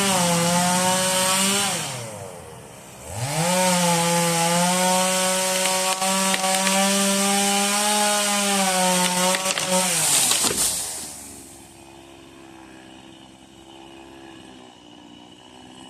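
Stihl two-stroke chainsaw at full throttle cutting wood, its pitch sagging under load. It backs off and slows about two seconds in, then speeds up and cuts again. Near the end it drops to a quieter idle.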